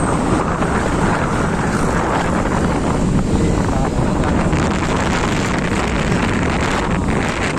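Steady wind buffeting the microphone on a moving motorbike, with the bike's engine and road noise underneath.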